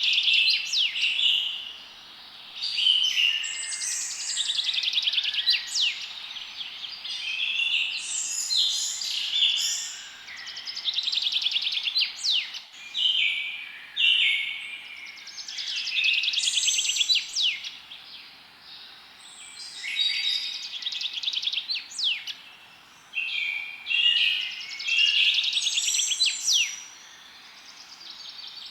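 Several songbirds singing at once, overlapping chirps and rapid trills in phrases a few seconds long with short lulls between them.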